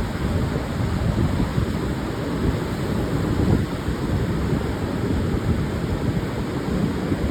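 Pacific surf breaking on a sandy beach, a continuous rush of waves with wind buffeting the microphone in uneven low surges.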